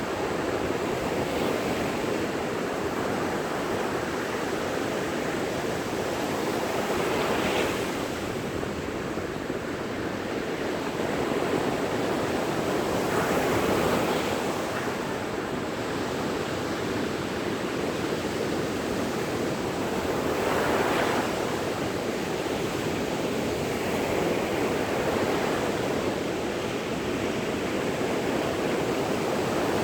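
Sea waves breaking on a beach: a steady wash of surf, with a louder break swelling up about every six to eight seconds, four times.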